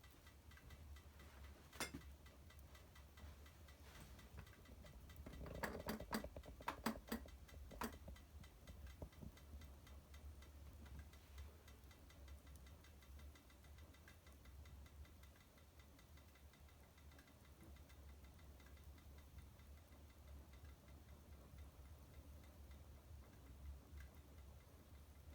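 Wood fire in a fireplace crackling faintly: a sharp pop about two seconds in, a cluster of pops and snaps around six to eight seconds, then only the odd faint crackle over a low steady hum.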